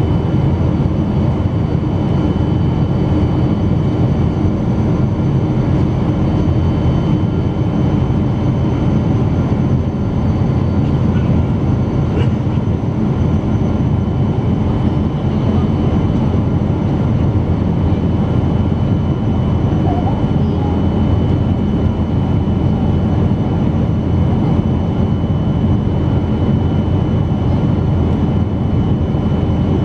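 Steady engine and airflow noise of a Boeing 777-200 airliner heard inside the passenger cabin, a constant low rumble with faint steady high whines over it.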